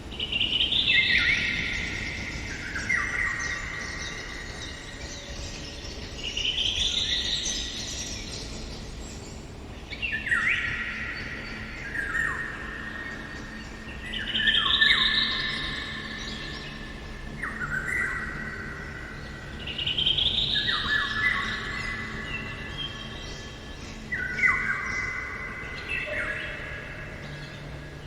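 Eurasian golden oriole singing. Phrases repeat every few seconds, each a quick rising sweep followed by lower fluty whistles stepping downward.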